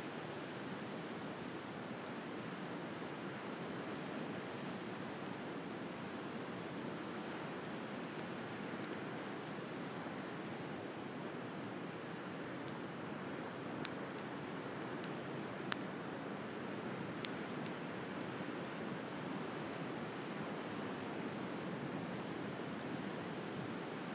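Sea waves washing on the shore in a steady rush, with scattered sharp crackles and pops from a wood bonfire, a few of them louder between about fourteen and seventeen seconds in.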